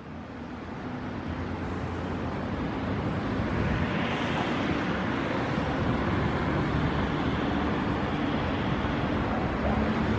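Steady road traffic noise, fading in over the first few seconds and then holding level.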